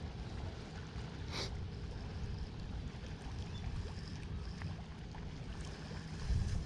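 Steady low wind rumble on the microphone, with a few faint clicks and a short hiss about a second and a half in.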